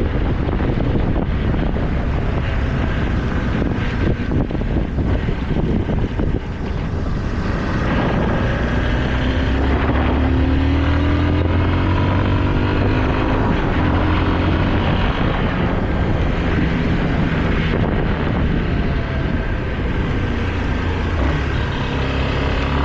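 Motorcycle engine running while riding, under heavy wind noise on the microphone. From about eight seconds in, the engine note comes through more clearly and rises in pitch as it accelerates, then rises again near the end.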